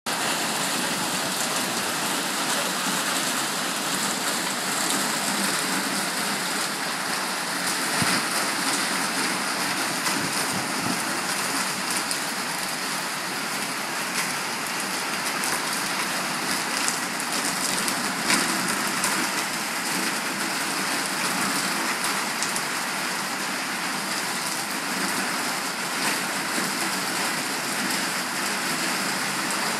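Heavy monsoon rain pouring down steadily, a dense hiss of rain on surfaces with occasional louder splashes.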